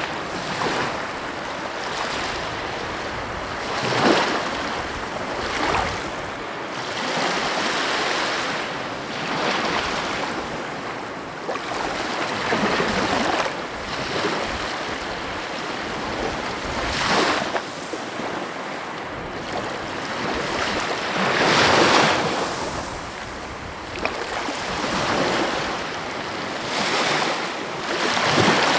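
Sea waves breaking and washing on the shore, a continuous hiss of surf that swells with each wave every few seconds, the biggest about three quarters of the way through.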